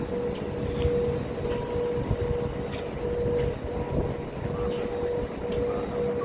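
Passenger train noise: a continuous low rumble with a steady humming whine and a few light clicks.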